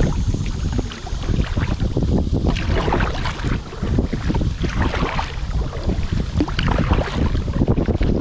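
Fast river water rushing and splashing around a paddled canoe or kayak, with heavy wind buffeting the microphone.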